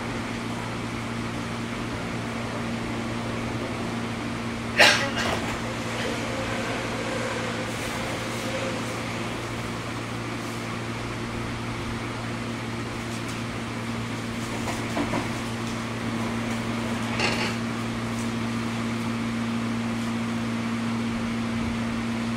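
Inside a JR 103 series electric train car standing still: a steady electrical hum from its onboard equipment. There is a sharp clack about five seconds in and a lighter knock about seventeen seconds in.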